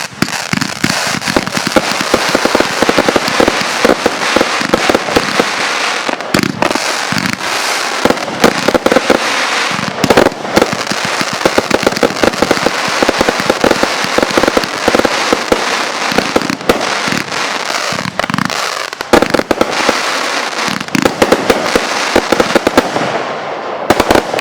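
Consumer fireworks going off in rapid succession: dense, continuous crackling and popping with a few louder bangs, easing off at the very end.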